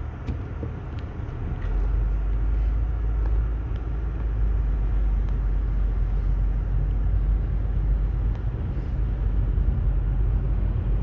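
Steady low rumble of a 2017 Honda Civic driving on compacted snow on Nokian WRG4 tyres, heard from inside the cabin; the rumble grows deeper and louder about one and a half seconds in.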